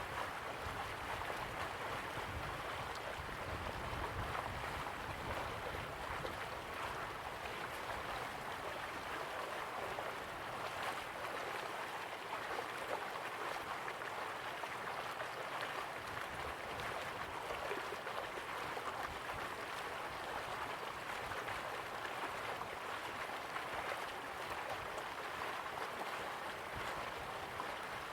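Slow-flowing river water, a steady even rush with no breaks.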